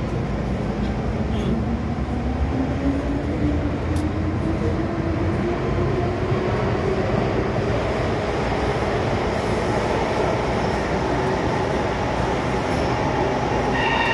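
MTR M-Train metro car running on the Kwun Tong Line, heard from inside: steady rumble of wheels and running gear, with a traction-motor whine rising steadily in pitch as the train picks up speed. A higher tone comes in near the end.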